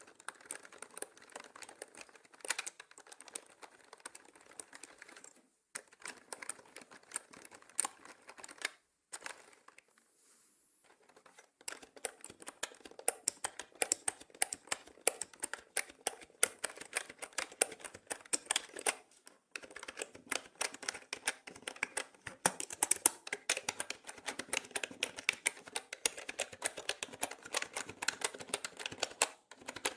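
Typing on a mechanical keyboard: quick, dense key clicks in runs, broken by short pauses and one break of about two seconds about ten seconds in.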